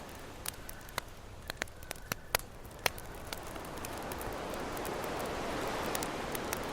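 Campfire crackling with scattered sharp pops over the wash of ocean waves; a wave swells up through the second half.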